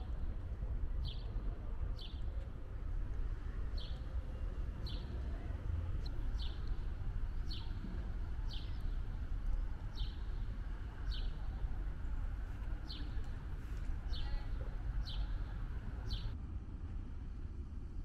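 A bird repeating a short, high chirp about once a second, stopping near the end, over the steady low rumble of a boat's motor.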